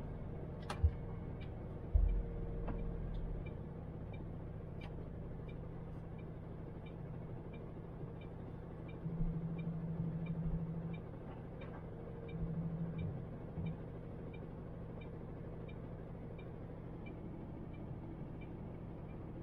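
MAN TGX truck's diesel engine running low and steady, with a faint regular ticking about twice a second. The engine note swells briefly about nine and twelve seconds in.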